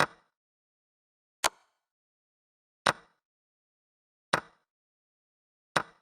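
Chess move sound effect: a short, sharp click of a piece set on a board, repeating at an even pace about every one and a half seconds, five times.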